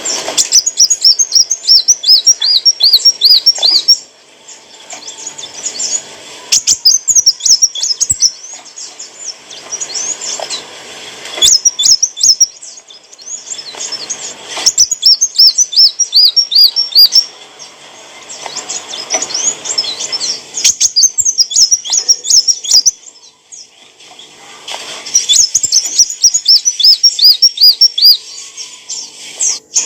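Sunbird (kolibri wulung) singing in repeated bouts of rapid, high, looping chirps and trills, each bout lasting a few seconds with short pauses between.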